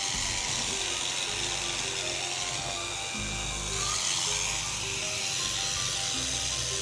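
Electric sheep-shearing handpiece running steadily as it cuts through the fleece.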